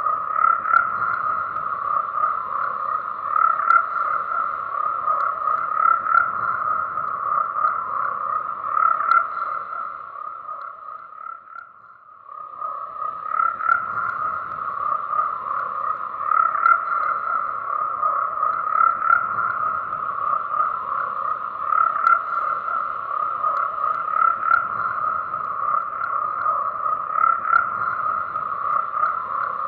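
Dense chorus of many frogs calling together, a continuous pulsing croak. It fades almost out about eleven to twelve seconds in, then swells back to full strength within a couple of seconds.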